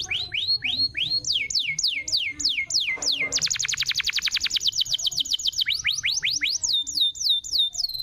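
Domestic canary singing: a run of falling whistled notes, about three a second, then a fast trill of rapid repeated notes, then more falling notes ending on a steady held whistle.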